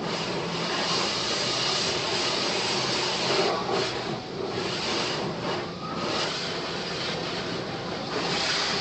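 Automatic car wash working over the car, heard from inside it: a steady rush of water spray and wash equipment against the body, swelling and dipping a little.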